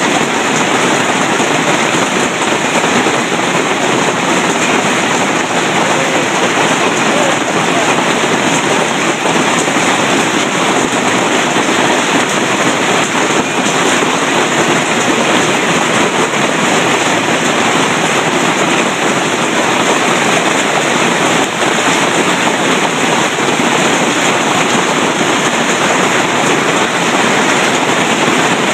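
Golf-ball-size hail pelting down hard: a loud, dense, unbroken clatter of countless impacts.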